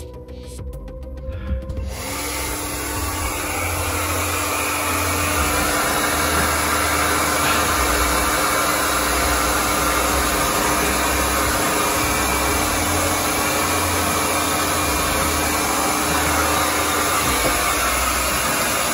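Hair dryer running steadily, blown over a van's bare metal floor to dry it; it switches on about two seconds in.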